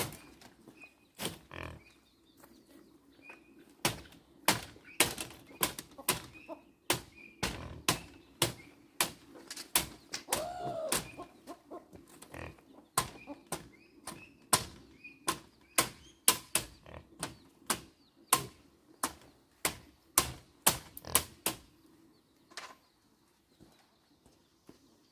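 A series of sharp knocks or blows, about two a second, which stops a few seconds before the end, over a steady low hum. Faint bird chirps and a short animal call about halfway through are heard in the background.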